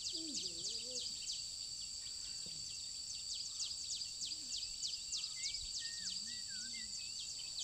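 Steady, high-pitched insect chorus pulsing several times a second, typical of field insects around a ripe rice field. Faint low voices murmur near the start, and a few short chirps come past the middle.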